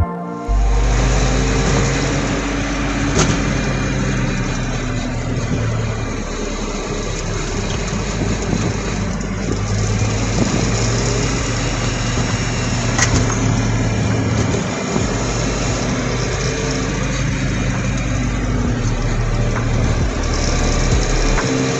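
Mazda Miata's four-cylinder engine running under way, with a steady engine note under road and wind noise. The low engine note dips briefly about fifteen seconds in.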